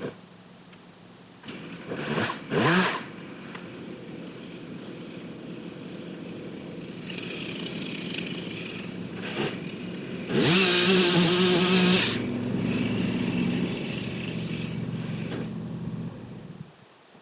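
Chainsaw engine idling, revved up quickly twice about two seconds in, then run hard for about a second and a half with a louder, harsher sound, and shut off near the end.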